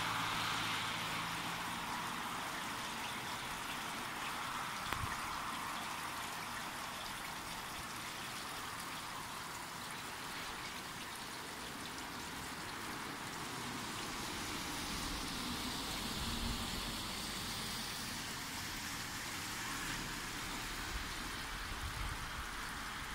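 Steady rain falling, an even hiss of rain on roofs and a wet road.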